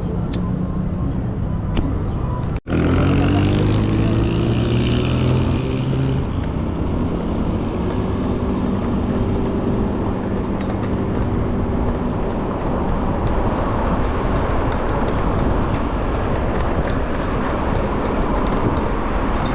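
Street traffic and rushing wind heard while riding an electric bicycle, cut briefly about two and a half seconds in. Just after the cut a nearby motor vehicle's engine rises a little in pitch for a few seconds as it accelerates.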